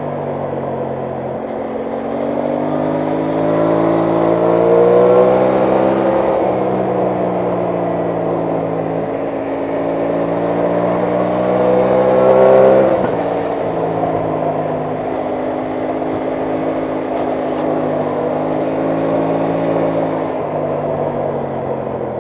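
Aprilia Tuono 660 Factory's parallel-twin engine accelerating twice, the pitch climbing for a few seconds and then falling sharply, once about six seconds in and again around thirteen seconds, before running at a steady lower pitch.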